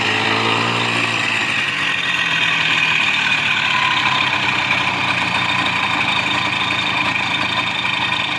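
Two-wheel-drive motorcycle engine running, with a brief change in pitch near the start and then a steady note.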